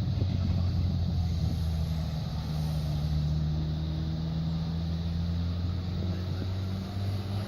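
Airbus A380's jet engines running at low power after landing: a steady low rumble with a few held low tones.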